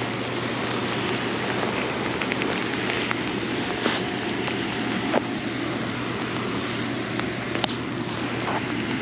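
Steady rushing of fast river water below a dam spillway mixed with falling rain, with a low hum underneath and a few sharp ticks.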